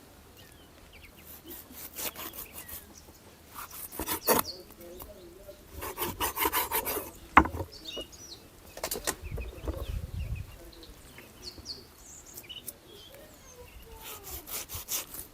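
Irregular scraping and rubbing of wood, with a sharp knock about seven seconds in; birds chirp faintly.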